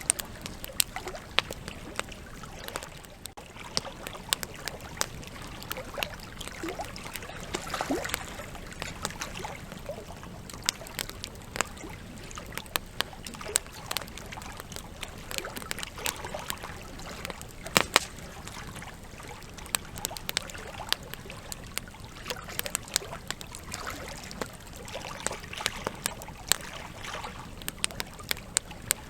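Campfire burning with a steady low hiss and irregular crackling, sharp snaps and pops from the burning logs, a few louder ones standing out.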